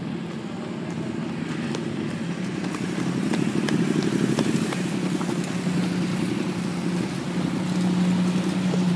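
Ferrari LaFerrari V12 supercars and a police motorcycle crawling past at low revs, a steady low engine note that grows louder as they approach.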